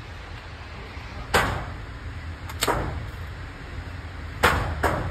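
Four gunshots at a shooting range, irregularly spaced, each with a short echo trailing after it.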